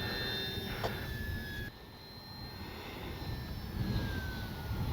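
Electric RC plane's brushless motor and propeller whining as it flies, the pitch sliding slowly down in the second half. Gusty wind rumbles on the microphone underneath.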